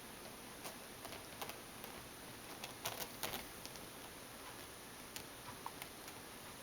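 Faint scattered ticks and scuffs over a steady hiss, with a quick cluster of them about three seconds in, typical of kittens moving about with small paws and claws on a surface.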